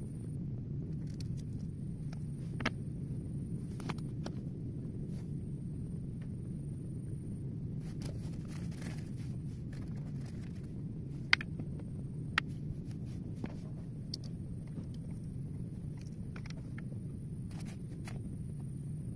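Steady low rumble with a thin, steady high-pitched tone above it and scattered sharp clicks and taps, the loudest about eleven seconds in.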